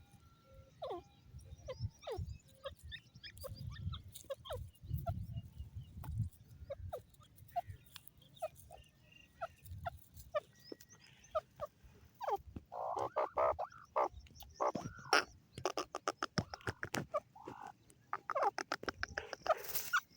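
Grey francolin calling: scattered short, sharp notes at first, then, from a little past halfway, several loud runs of fast repeated notes.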